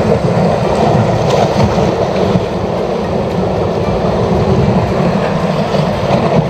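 Steady rushing noise of wind and sea at a rocky shoreline.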